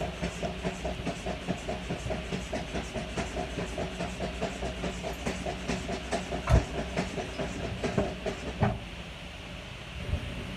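A motor running with a steady rhythmic pulse, about six beats a second, which stops about nine seconds in; a single sharp knock comes about six and a half seconds in.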